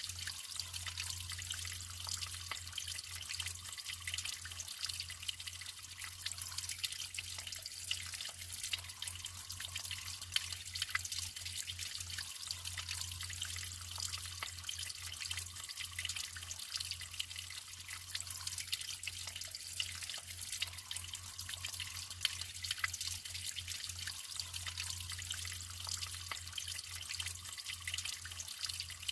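Naturally flowing water trickling and splashing steadily, thick with small drips and splashes. A faint low hum sits underneath.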